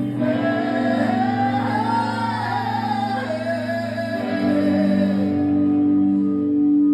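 Live band music: a long sung melodic line with vibrato over sustained low chords. The melody fades out after about five seconds, leaving the held chords.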